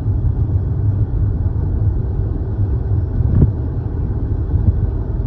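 Low, steady rumble of a car's engine and tyres on the road, heard from inside the moving car's cabin, with a single short knock about three and a half seconds in.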